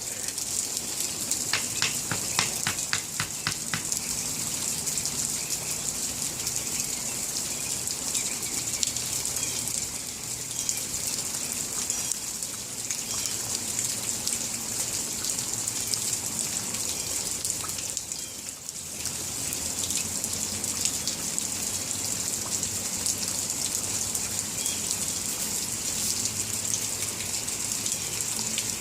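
Steady rain falling, an even hiss, with a quick run of clicks a couple of seconds in.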